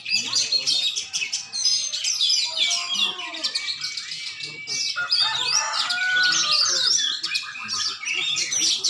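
Competition songbirds singing together in a dense, continuous chorus of rapid chirps, trills and whistles, several songs overlapping.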